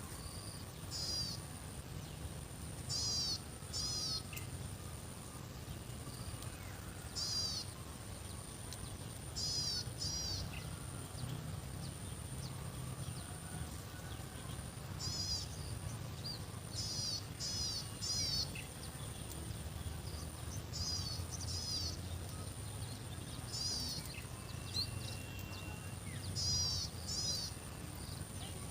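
A bird calling again and again in short clusters of two or three quick high notes, over a steady thin high-pitched insect drone and a low rumble.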